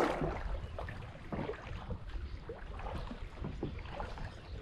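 Water lapping and trickling against a kayak's hull in a fast river current, with small scattered splashes and a steady low wind rumble on the microphone.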